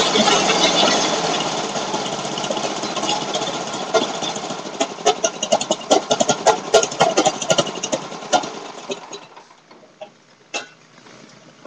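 Old Craftsman engine running after a cold start, then sputtering with irregular pops as it slows, and stopping about nine seconds in.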